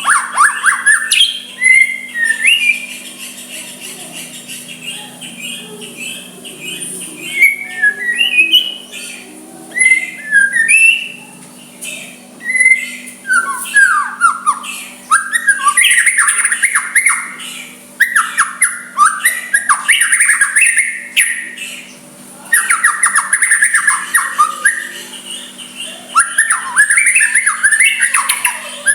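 White-rumped shama singing: a string of loud whistled and chattering phrases with short pauses between them, the phrases coming longer and denser in the second half.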